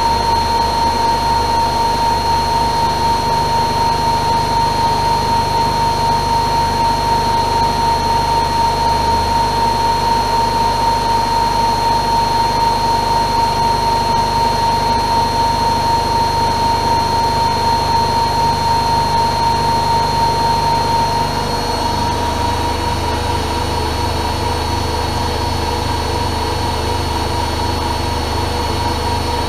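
AEG Öko-Lavamat Lavalogic 1600 washing machine spinning at speed: a steady high motor whine over a low rumble. About three quarters of the way through, the whine steps up slightly in pitch and the sound gets a little quieter.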